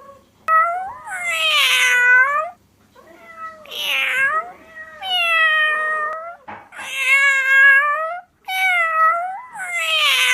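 Domestic cat meowing about five times in a row. Each meow is long and drawn out, bending in pitch, with brief pauses between them.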